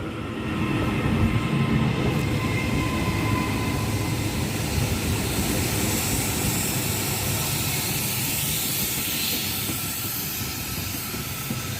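Class 397 electric multiple unit pulling away from the platform: a steady rumble of wheels and running gear with a few faint steady whining tones, and a hiss of rail noise that grows louder about halfway through as it picks up speed.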